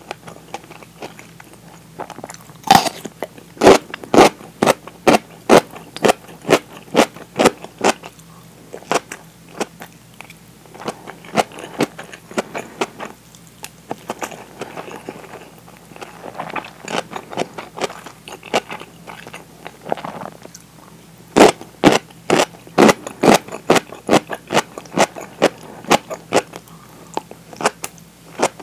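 Pickled daikon (tōshibori daikon) being bitten and chewed: quick runs of sharp, crisp crunches a few seconds in and again after about twenty seconds, with softer chewing between.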